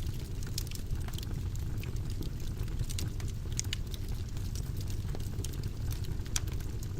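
Wood fire burning in a fireplace: a steady low rumble of the flames with irregular sharp crackles and pops, a few of them louder, one about six seconds in.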